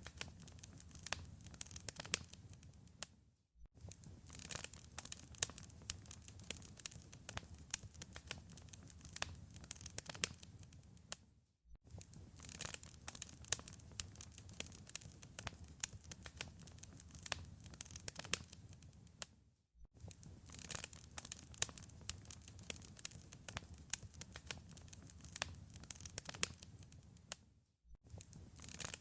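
Fireplace fire crackling: a dense run of sharp pops and snaps over a low rumble. It drops out to near silence for about half a second three times, roughly every eight seconds.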